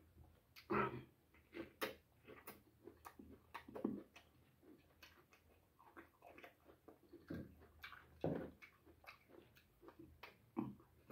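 Close-up mouth sounds of a person eating boiled cabbage by hand: irregular wet chewing and lip-smacking, with a few louder smacks about a second in, around four seconds and around eight seconds.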